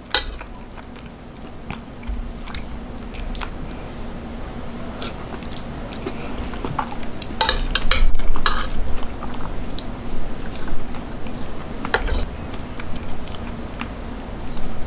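Close-up chewing and biting of crispy fried pork belly (lechon kawali). A few sharp clicks of a metal fork on a ceramic plate come about halfway through and again near the three-quarter mark.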